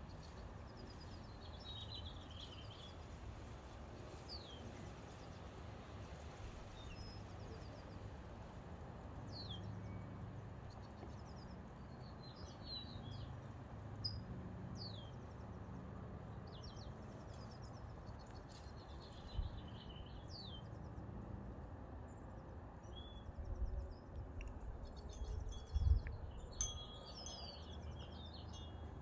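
Small birds chirping on and off, short quick downward-sweeping chirps, over a steady low outdoor rumble. A few dull low thumps come in the last third, the loudest about 26 seconds in.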